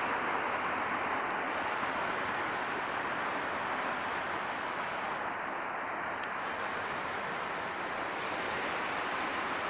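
Passenger train's coaches rolling away on the track: a steady rushing rumble without distinct clicks or horn.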